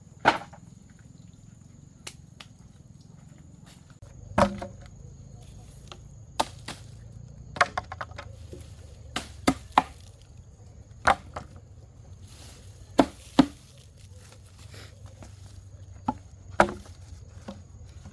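Chopping blows on wood, about a dozen sharp strikes at uneven gaps, some coming in quick pairs.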